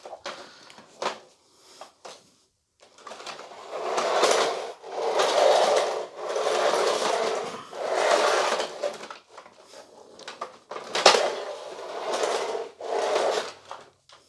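Repeated rubbing or scraping strokes, each about a second long, with a sharp click about eleven seconds in: hands handling and rubbing the plastic body of a vacuum cleaner.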